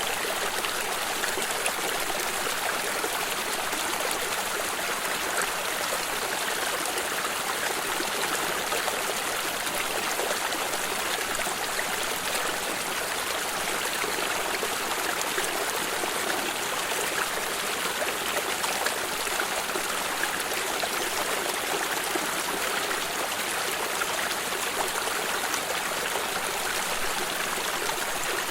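Stream of water flowing steadily over stones, a continuous babbling rush with fine trickling.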